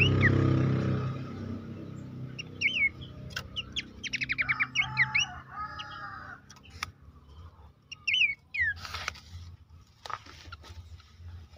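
Pelanduk semak babbler calling: short, sharp whistled notes that sweep downward, given singly and in pairs, with a quick run of rapid notes about four seconds in. A low hum fades out in the first second.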